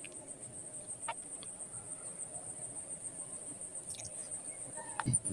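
Faint, steady, high-pitched insect trill pulsing evenly, with a few soft clicks.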